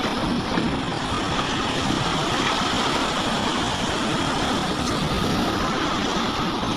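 Heavy earthmoving machinery with its engine running steadily.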